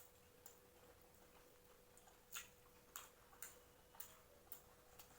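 Faint clicks of chewing and lip smacking while eating, about two a second, over a faint steady hum.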